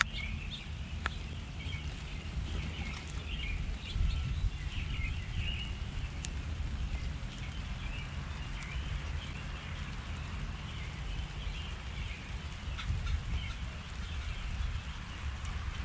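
Small backyard birds chirping and twittering throughout, over a steady low rumble, with a few sharp ticks.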